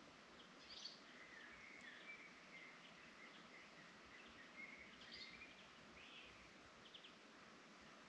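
Faint forest birdsong: scattered short chirps and a few brief warbled phrases over a soft, steady hiss.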